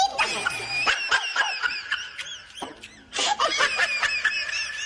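Rapid run of short, high-pitched squealing cries that rise and fall like laughter, in two bursts with a brief lull partway through.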